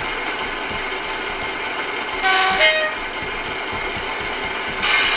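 Sound decoder in a model Class 47 diesel locomotive playing the engine idling, with a short two-tone horn (the 'short whistle', a higher note dropping to a lower one) about two seconds in and a brief hiss near the end.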